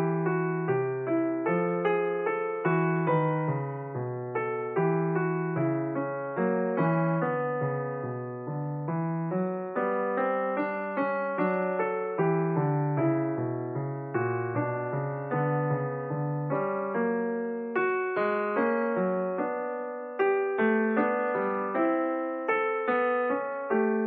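Background music: a piano playing a flowing run of notes and chords, each note struck and fading.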